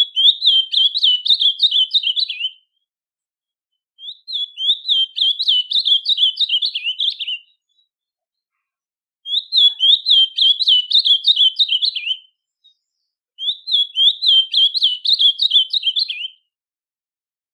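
A songbird singing: four phrases of quick repeated chirping notes, each lasting about three seconds, with short silent gaps between them.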